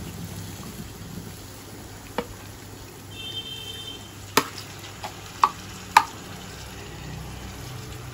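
Marinated chicken pieces sizzling in hot oil and onions in a stainless-steel kadai as they are stirred, the start of browning the meat. A metal spatula clinks against the pan about four times.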